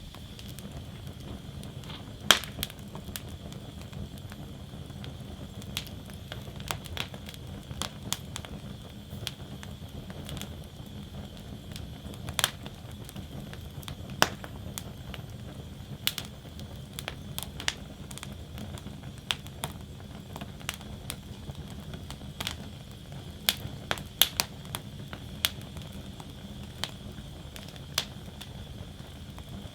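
Wood fire burning in a fire basket: irregular sharp crackles and pops from the burning logs over a steady low rumble of the flames.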